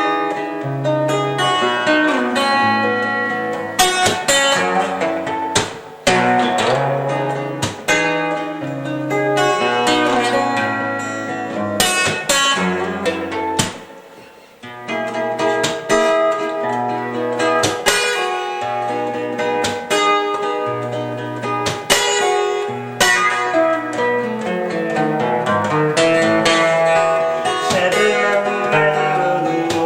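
Solo guitar music: a plucked melody over a repeating bass line, easing off briefly about halfway through before picking up again.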